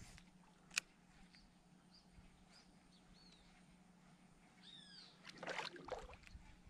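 Faint outdoor quiet with a sharp click about a second in and a few small bird chirps, then a bird gives one call of falling notes. Just after it comes a louder rough noise lasting about a second.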